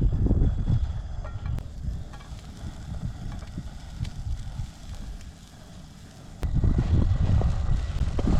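Wind buffeting the microphone in gusts, easing off for a couple of seconds and gusting up again suddenly past the middle. Chopped onion sizzles faintly in a pan on a portable gas stove underneath.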